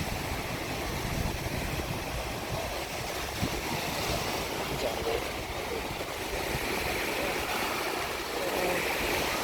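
Loud Gulf of Mexico surf breaking on the beach, a steady wash of waves, with wind buffeting the microphone in low rumbling gusts.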